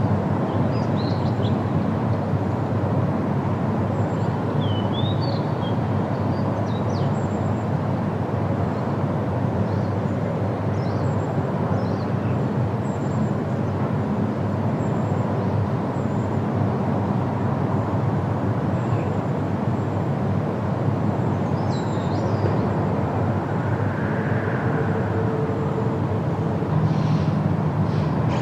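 Outdoor field recording: a steady low rumbling noise throughout, with faint, short bird chirps now and then above it.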